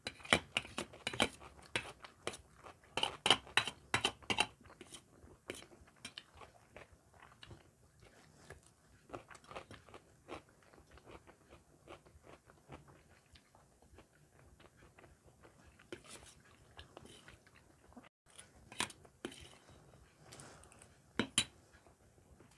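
A person chewing and crunching mouthfuls of fried rice close to the microphone, with a dense run of sharp crunches in the first four seconds, then sparser ones and a few louder ones near the end.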